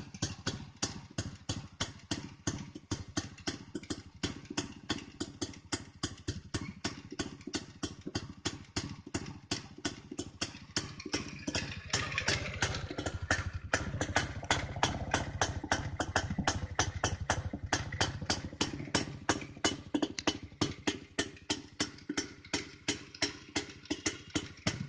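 Restored Jawa 250 single-cylinder two-stroke motorcycle engine idling with a steady, even pulsing beat of about four pulses a second, running a little louder from about halfway through.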